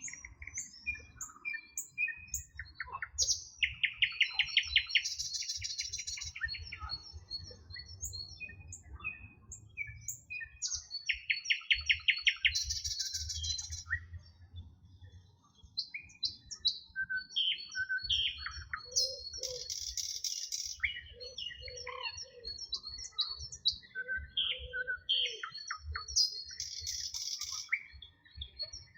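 A chorus of wild birds singing, with many overlapping chirps and whistles. One bird repeats a loud song about every seven to eight seconds: a rapid trill followed by a buzzy, hissing phrase. A low rumble runs underneath.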